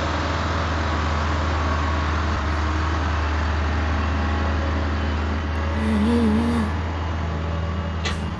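Heavy diesel machinery engines running under load, with a steady deep drone. A brief wavering whine rises over it about six seconds in, and there is a sharp click near the end.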